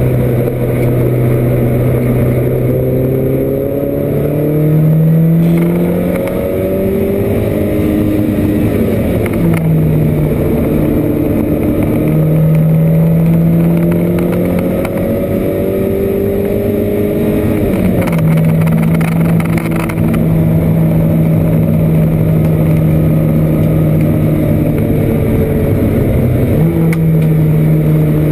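Porsche 924's four-cylinder engine under racing load, heard from inside the cockpit. Its revs climb and fall in steps as it goes through the gears, dropping sharply about two-thirds of the way in, holding steady for several seconds, then rising again near the end.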